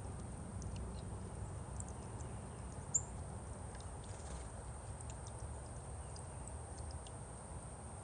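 Small songbirds giving scattered short, high chip and tick notes, with one sharper high chip about three seconds in, over a steady low rumble of outdoor background.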